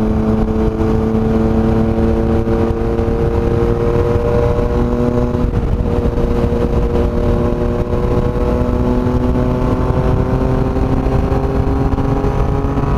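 Yamaha MT-09's inline three-cylinder engine running through a loud aftermarket exhaust while riding, heard from the rider's own microphone. The engine note climbs slowly, with a brief break about five and a half seconds in, then climbs again.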